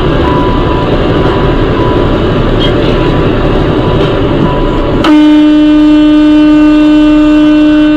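Steady road and engine noise from a moving vehicle. About five seconds in, a vehicle horn sounds one long, steady single-note blast lasting about three seconds.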